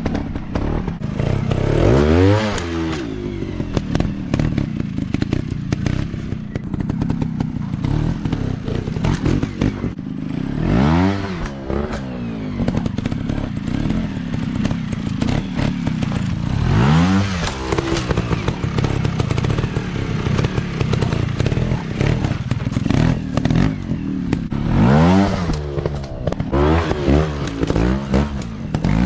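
Dirt bike engines running and revving, the pitch rising and falling in bursts: once a couple of seconds in, again about a third and halfway through, then several quick revs near the end. A constant clatter of clicks runs underneath.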